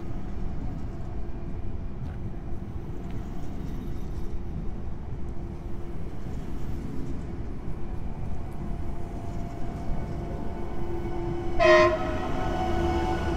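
A Warsaw SKM electric multiple unit rolls along the platform, a steady running rumble with a faint hum. About 11.5 s in, a short, loud horn blast sounds from the Intercity Cormoran train: the Rp1 "attention" signal.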